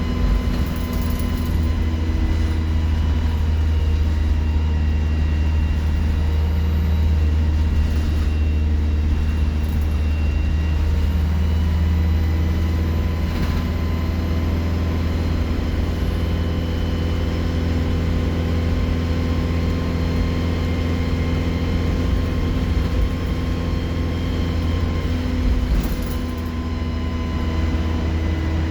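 Alexander Dennis Enviro 200 single-deck bus engine running steadily with a deep hum, its turbocharger whistling over it; a faint high whistle rises and falls near the middle.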